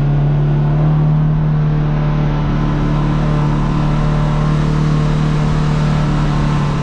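Side-by-side UTV engine running at a steady pitch while driving along.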